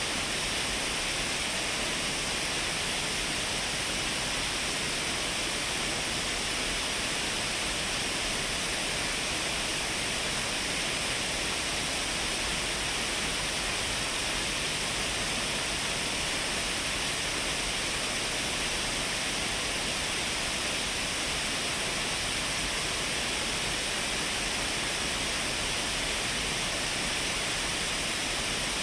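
Shiraito Falls, a broad curtain waterfall of many thin streams, rushing steadily. It makes an even, unbroken hiss of water, brightest in the upper range.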